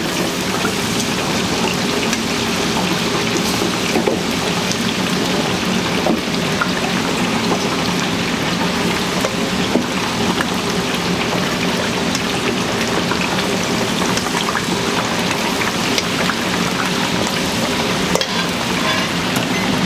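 Chicken deep-frying in a vat of hot oil: a steady sizzle dotted with small crackles and pops.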